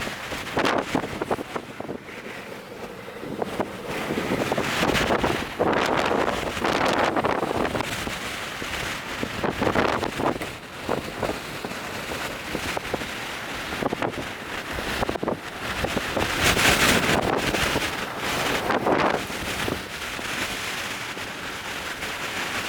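Strong, gusty wind buffeting the microphone, surging and easing every second or two: the inflow winds feeding a nearby tornado.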